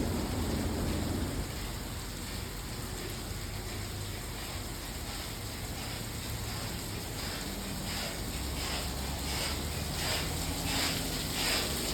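LaserWash touchless automatic car wash spraying water onto a car, a steady rain-like hiss over a low hum. From about seven seconds in, the spray comes in repeated pulses, under a second apart.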